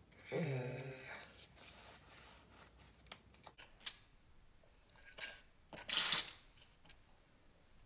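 A few short hissing spritzes from a pump bottle of NYX setting spray that is nearly empty, the loudest a little after six seconds in. A brief murmur from a voice near the start.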